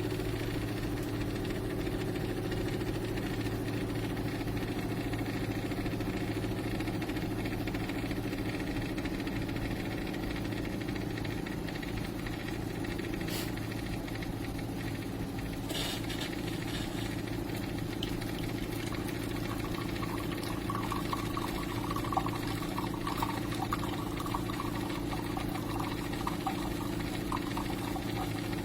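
De'Longhi TrueBrew drip coffee maker running through a brew: a steady pump hum. From about twenty seconds in, faint gurgling and sputtering is added.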